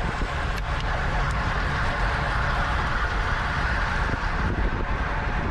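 Steady rush of wind over a bike-mounted camera's microphone, with the rumble of bicycle tyres on the road at race speed.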